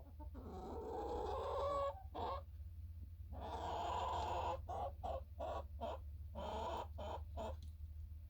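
Domestic hens clucking and calling: two long drawn-out calls, then a quick run of short clucks.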